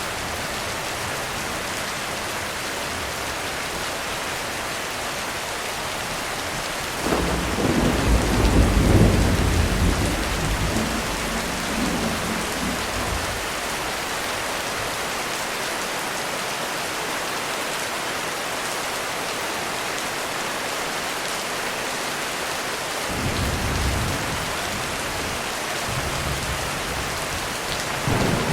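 Heavy rain falling steadily on a roof. A rolling rumble of thunder swells about a quarter of the way in and fades over several seconds, with shorter, fainter rumbles later and again near the end.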